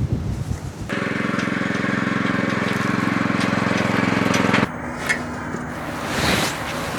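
An engine running at a steady speed, starting suddenly about a second in and cutting off abruptly after about four seconds.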